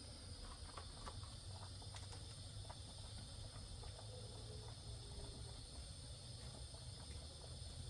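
Faint night-time outdoor ambience: crickets chirring steadily, with light scattered ticks over a low steady rumble.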